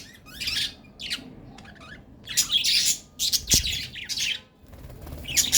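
Budgerigars chattering and chirping in quick high bursts, in several clusters with short pauses between them and a fast run of chirps near the end.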